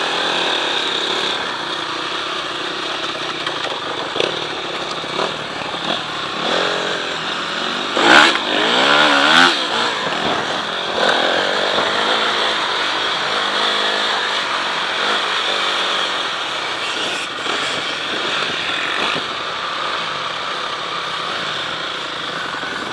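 Motocross bike engine running, with the revs rising and falling sharply about eight to ten seconds in.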